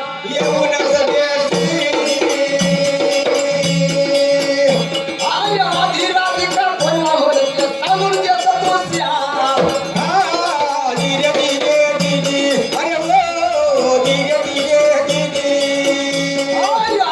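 Marathi shahiri folk music: a steady held note under a melody, with a regular drum beat about twice a second and jingling rattle-like percussion.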